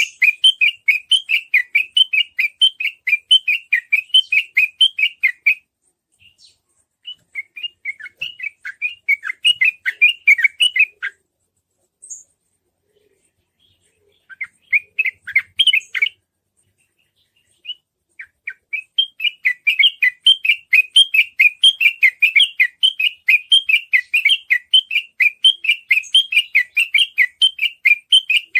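Yellow-vented bulbul (trucukan) singing in rapid runs of short, quick chirps, several a second, in bursts of a few seconds broken by short pauses. This is the fast chattering 'ropel' song used as a lure to set other trucukan singing.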